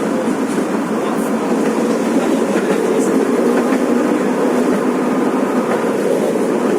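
Old Kyiv tram running along worn, wobbly track: a steady rumble of wheels on rail with a few faint clicks.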